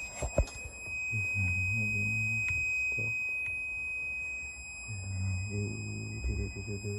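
Nissan Juke engine turned over on its starter motor for a cylinder-pressure compression test, a steady low drone for about two seconds. It stops about three seconds in and cranks again from about five seconds in.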